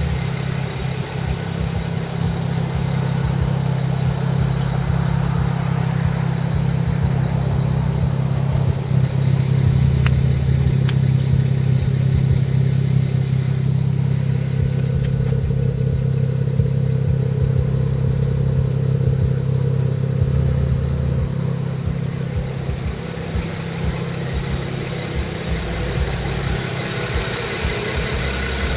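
BMW 335i's turbocharged straight-six idling steadily through its stock exhaust, a low, even hum.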